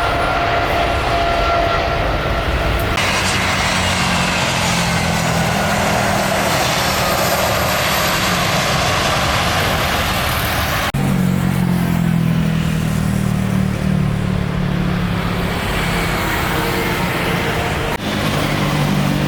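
Loud, steady engine noise from aircraft and airside vehicles at an airport. The sound changes abruptly about 3, 11 and 18 seconds in: a broad jet-like rush in the middle section, then a steadier low engine hum.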